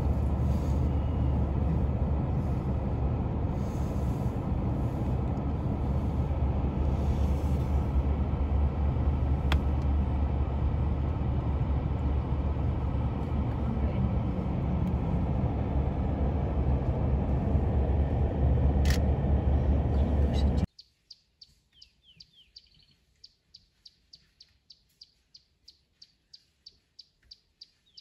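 Steady low rumble of a car driving, which cuts off suddenly about three quarters of the way in. After it, in quiet, come evenly repeated high chirps, about three or four a second.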